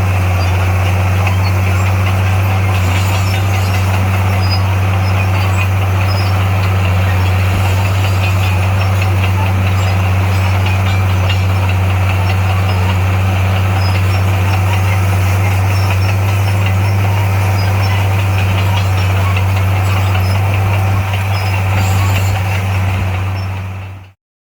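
Heavy diesel engine of earth-moving equipment running steadily with a constant low drone. It fades quickly and cuts off shortly before the end.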